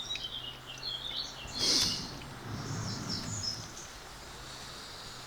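Birds chirping in short repeated calls, with one louder call nearly two seconds in, over a faint steady low hum.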